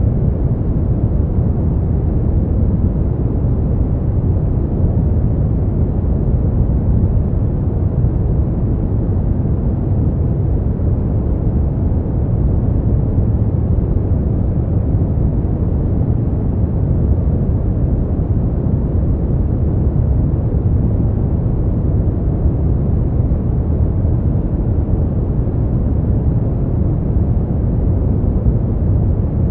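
Steady, unchanging noise played as a sleep and relaxation aid, deep and rumbling in tone rather than hissy, with nothing else over it.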